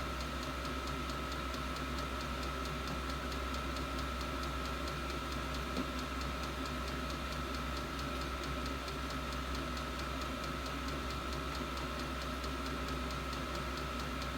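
8 kW 12 V all-in-one diesel air heater running: a steady hum from its blower with a constant high whine, and the fuel dosing pump ticking at an even rate throughout.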